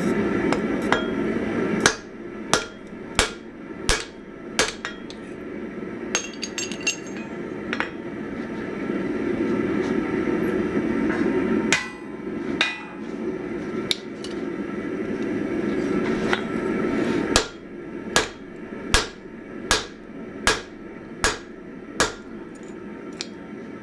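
Hammer blows on hot 1045 steel on an anvil, each a sharp ringing strike, coming in runs of about one every 0.7 seconds, with a steady rushing roar in the pauses between runs.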